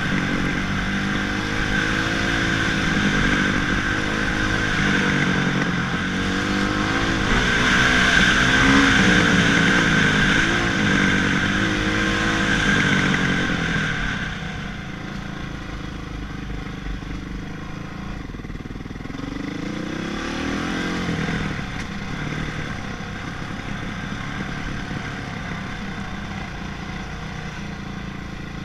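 Honda CRF450 motocross bike's single-cylinder four-stroke engine revving up and down under riding. It is loudest in the first half, drops quieter after about 14 seconds, and rises and falls once more about 20 seconds in.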